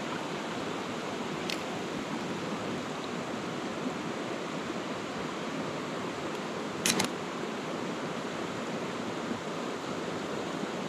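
Steady rush of flowing river water, with a faint click about a second and a half in and a sharper double click about seven seconds in.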